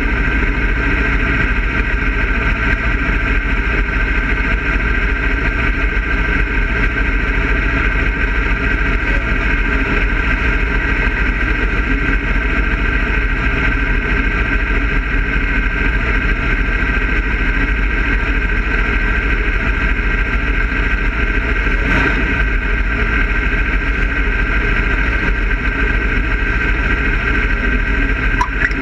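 Dirt-track race car engine idling steadily, heard from inside the stationary car's cockpit.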